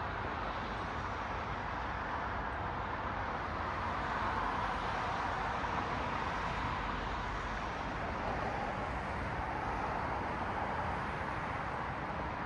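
Road traffic: the steady hiss of cars passing on a street, swelling slightly for several seconds in the middle as a vehicle goes by.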